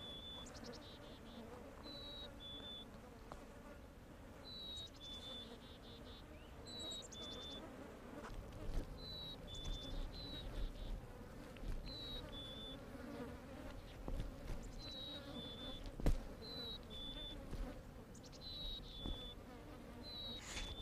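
A bird repeating a clear two-note whistle, the second note a little lower than the first, about every two seconds, over a faint buzzing of flies around a carcass. A single sharp tap about sixteen seconds in.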